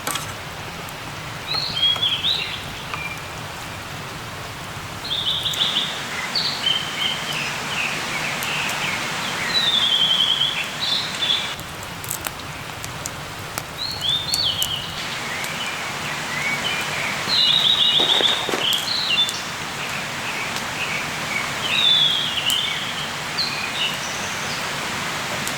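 Forest songbirds singing in short, repeated high phrases over a steady hiss, with a few sharp ticks now and then.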